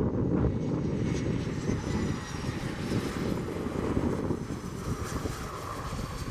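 Boeing 737-300F's CFM56-3 turbofan engines: a jet's deep rumble with faint high whine tones falling slowly in pitch as it passes.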